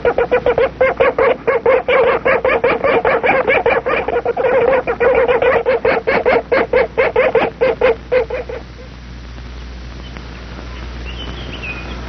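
Black woodpecker giving a fast run of loud, repeated calls, about six a second, an alarm at a passing kite. The calls stop about eight and a half seconds in, and faint high chirps of small birds follow near the end.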